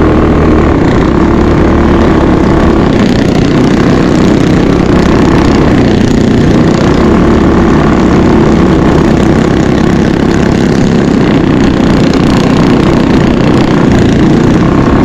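Mini bike engine running steadily and loudly, holding an even pitch.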